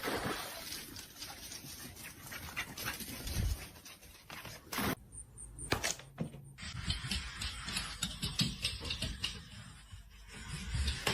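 A dog panting and whimpering, with scattered short clicks and knocks.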